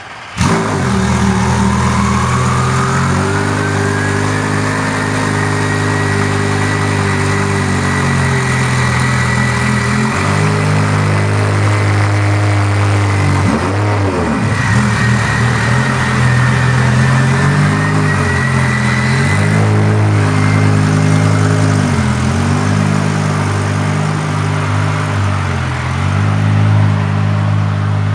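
The Lamborghini Gallardo's twin-turbocharged 5.0-litre V10 fires up just after the start and settles into a steady idle. A high whine climbs over the first few seconds, then holds. The engine note dips and swells briefly several times, most markedly about halfway through.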